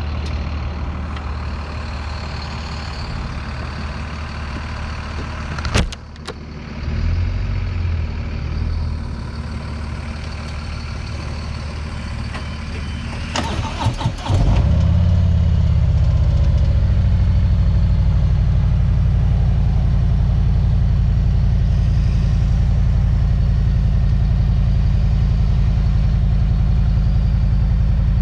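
A vehicle engine idling, with a sharp click and a few more clicks. About halfway through, an engine starts with a brief rev that falls away into a louder, steady idle.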